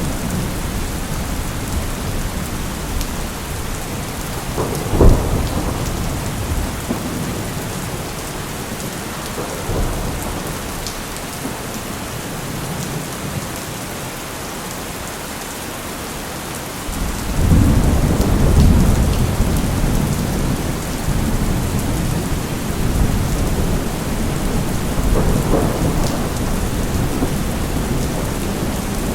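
Steady rain falling through a thunderstorm, with a sharp thunder crack about five seconds in and a long deep rumble of thunder building about two-thirds of the way through.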